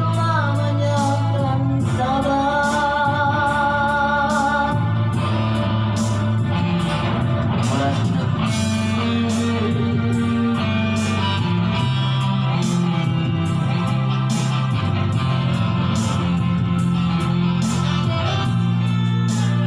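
A song: a singer holds long notes with a wavering vibrato in the first few seconds, over band backing with guitar and a steady drum beat.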